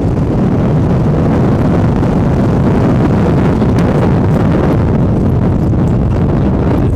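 Loud, steady wind buffeting on the microphone over the running of a moving off-road vehicle.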